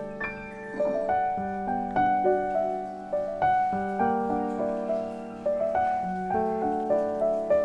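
Background piano music: gentle struck notes and chords that each fade away, following one another at an unhurried pace.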